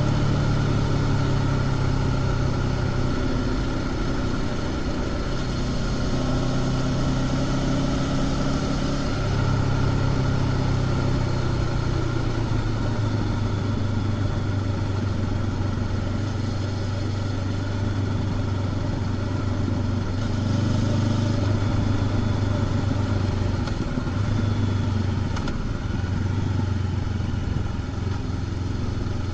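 Honda CB500X parallel-twin engine running through its stock exhaust while riding, heard onboard over wind and road noise. The engine note holds steady, then shifts in pitch about a third of the way in and wavers again near the end as the throttle changes.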